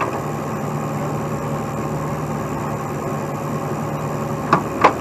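Heavy tow truck's engine running steadily while its boom lifts the load. Two sharp knocks close together near the end.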